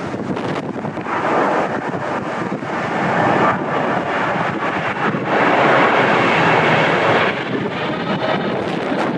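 Strong wind buffeting the microphone in swelling gusts, over the rushing of a Boeing 777's jet engines on its landing approach. The loudest gust comes about five seconds in.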